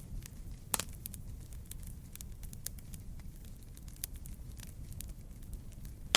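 Wood fire crackling: a steady low rumble of burning with frequent small pops and snaps, a louder pop just under a second in and a sharp snap at the very end.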